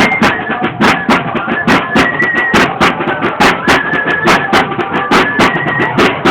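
Torito dance music: a high flute melody over a steady drumbeat of about three strikes a second.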